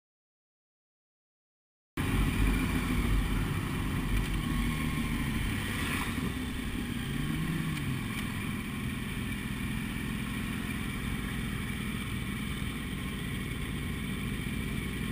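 Silence for about two seconds, then motorcycle engines running with a steady rush of outdoor noise, one engine briefly rising and falling in pitch just past the middle.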